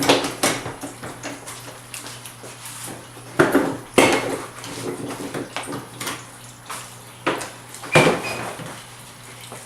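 Acura RSX front bumper cover being pulled free: a string of sharp clicks and plastic clatters as it unclips and is handled, with the loudest knocks just after the start, about three and a half to four seconds in, and about eight seconds in.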